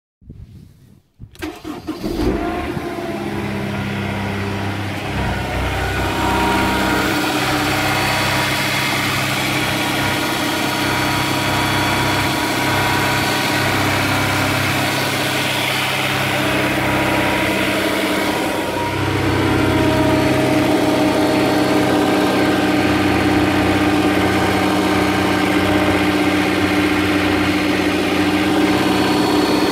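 Honda S2000's four-cylinder engine cranking and catching from a cold start about two seconds in, then idling steadily. The idle note shifts slightly about two-thirds of the way through. The owner suspects rod knock in this engine.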